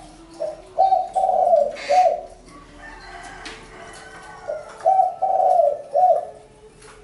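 Spotted dove cooing: two phrases about four seconds apart, each a short note, a long drawn note and a short closing note.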